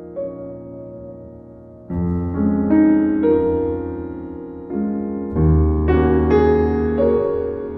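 Piano music: a quiet passage, then deep bass chords struck about two seconds in and again about halfway through, with higher notes ringing above them.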